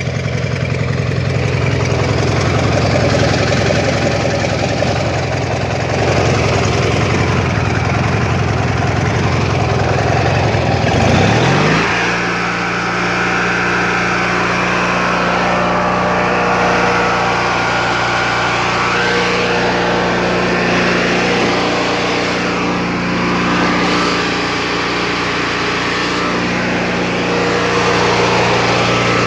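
Simplicity 6516 garden tractor's 16 hp, 656 cc Briggs & Stratton opposed-twin engine running steadily. About eleven seconds in its sound shifts, with a brief rise in pitch, then settles into an even, steady hum.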